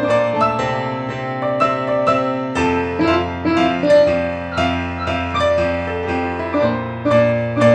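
Keyboard music: a melody of struck, quickly fading notes played over held bass notes, with a deeper bass note coming in about two and a half seconds in.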